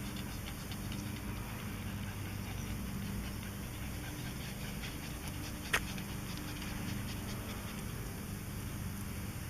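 Demolition excavator's diesel engine running at low revs, a steady low hum, with one sharp click a little past halfway.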